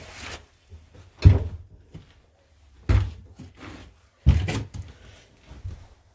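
Three heavy thumps about a second and a half apart, each with a brief rattle after it, and lighter knocks and clatter between them: hard objects being set down or shut.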